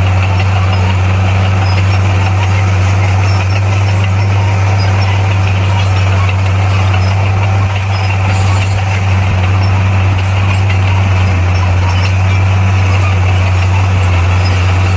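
Bulldozer's diesel engine running at a steady, unchanging speed, a deep even drone.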